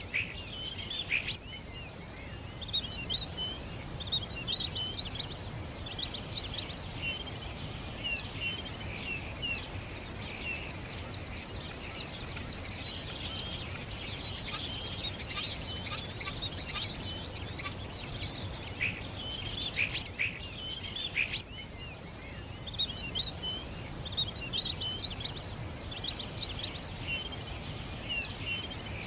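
Many small songbirds chirping and twittering, with short overlapping calls all the way through and busiest in the middle, over a steady low background noise.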